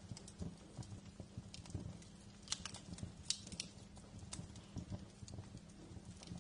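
Wood fire crackling in a fireplace: irregular sharp pops and snaps over a low rumble of burning, with a cluster of louder pops about two and a half to three and a half seconds in.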